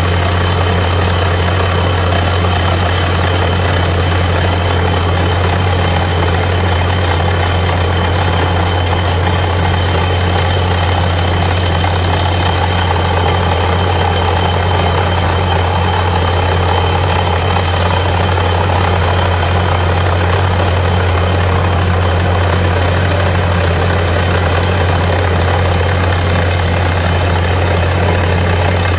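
Borewell drilling rig's heavy engine running steadily under load, a constant deep drone with a dense rushing noise above it.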